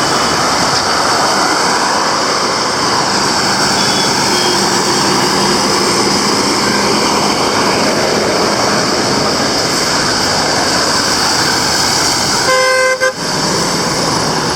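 Steady noise of road traffic passing along a street, with a vehicle horn tooting once, briefly, near the end.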